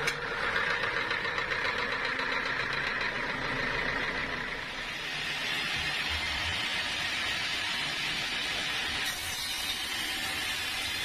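Sawmill machinery running steadily, an engine-like mechanical drone with no sawing cut standing out; the sound changes abruptly about nine seconds in.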